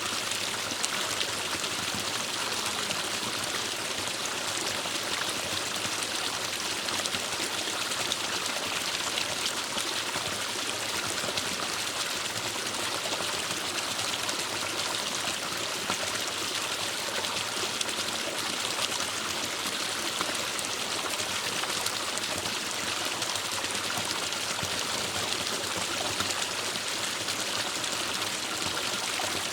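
Forest stream of shallow water running steadily over rocks, a continuous trickling and splashing that stays even throughout.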